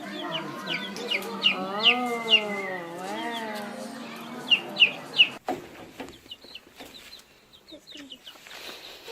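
Chickens clucking, with many short, sharp, high calls and a longer call that slides up and down. About five and a half seconds in, the sound drops abruptly quieter, with fainter high calls carrying on.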